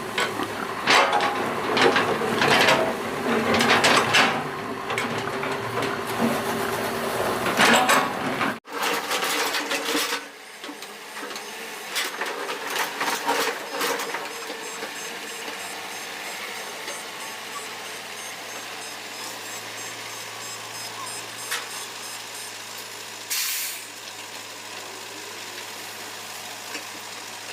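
Doosan excavator at work: its diesel engine runs under a loud, busy stretch of clanks and knocks. Then, about a third of the way in, the sound changes abruptly to steadier engine running with only occasional knocks.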